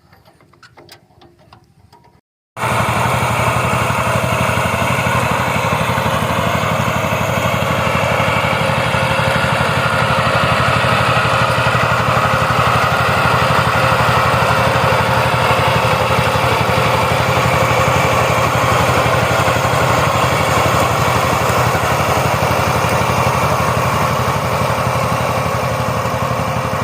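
A power tiller's diesel engine running steadily at an even speed, cutting in abruptly about two and a half seconds in after a quiet stretch with faint clicks.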